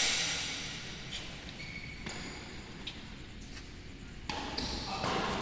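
A single sharp hit of a badminton racket on the shuttlecock, ringing out in the large hall, followed by a few short high squeaks of shoes on the court.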